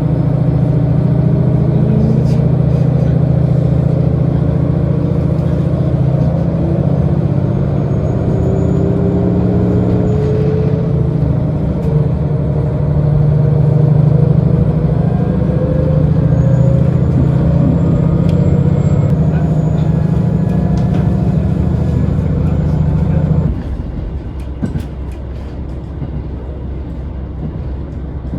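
Diesel railcar engine running hard under power, with whines that rise slowly in pitch as the train gathers speed. About 23 seconds in the throttle is cut and the engine drone drops off suddenly, leaving a quieter rumble of the train coasting.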